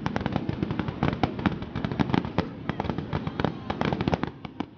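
Fireworks crackling and popping in quick, dense succession, many sharp bursts a second, thinning out near the end.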